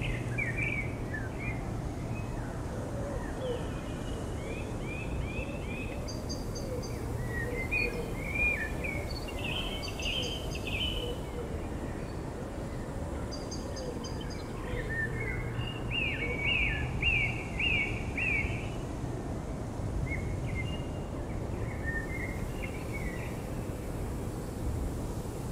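Several songbirds singing in short repeated phrases, with a thin, high paired note recurring every few seconds, over a steady background hiss.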